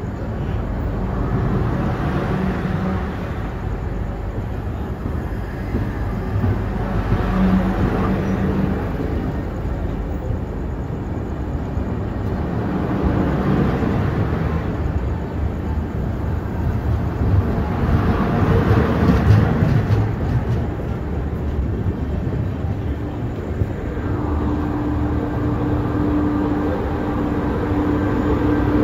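Train running on the track: a continuous rumble of wheels and rails that swells and eases every few seconds, with a steady hum joining near the end.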